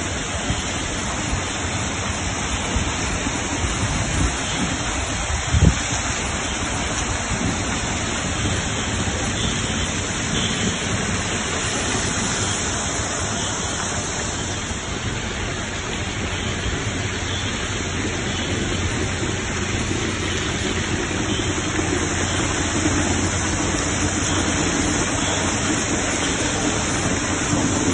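Steady rush of falling water, with one sharp knock about five and a half seconds in.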